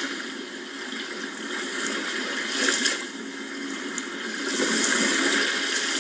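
Sea waves washing in, a steady hiss of water with a brief surge about two and a half seconds in and a longer swell near the end.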